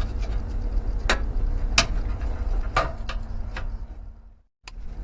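Sharp metallic clicks and knocks from hand tools working on a split air-conditioner unit during dismantling, about five strikes spaced roughly a second apart, over a low steady rumble and hum. The sound fades and cuts out briefly near the end.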